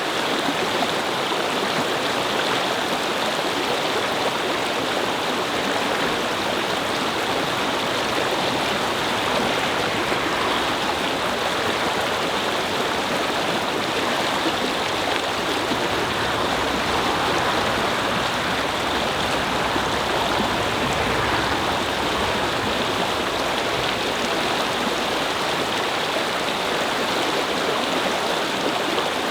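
Brook babbling: shallow running water flowing over stones in a steady, unbroken rush.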